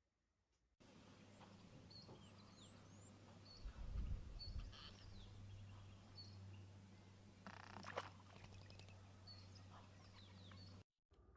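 Small birds chirping again and again in short high notes and quick glides over a steady low hum, with a low thump about four seconds in and a sharp knock near eight seconds. It all starts abruptly about a second in and cuts off just before the end.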